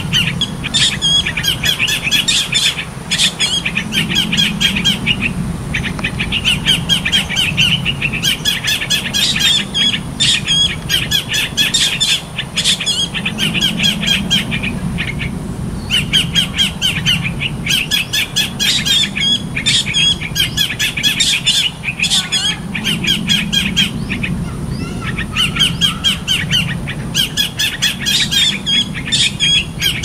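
A bird calling in fast runs of sharp, rapidly repeated chirps. Each run lasts about two seconds, with short breaks between runs, and the calling goes on throughout.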